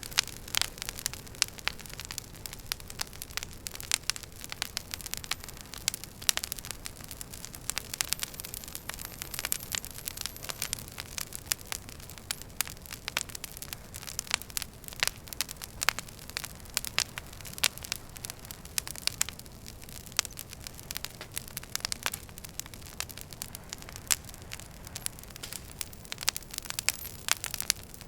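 Wood fire in a fireplace crackling: dense, irregular pops and snaps from the burning logs over a steady low rumble of flame.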